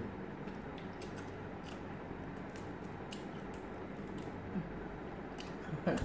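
People chewing and biting grilled pork barbecue off skewers: scattered soft clicks and lip smacks over a steady room hiss, with a brief vocal sound near the end.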